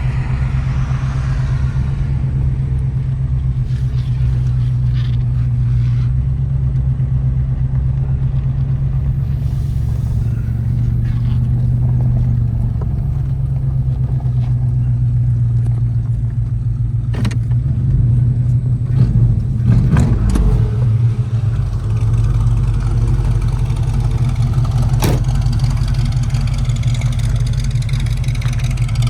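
1980 Chevrolet El Camino's crate 350 V8 running steadily as the truck is driven and pulled in. The engine note wavers and gets a little louder about two-thirds of the way through, and there are a few short knocks or clicks.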